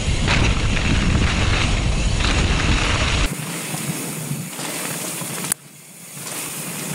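Wind buffeting a helmet-mounted camera and mountain bike tyres rumbling over a muddy dirt trail at speed. About three seconds in the sound changes abruptly and loses its low rumble, and it drops sharply for a moment about five and a half seconds in.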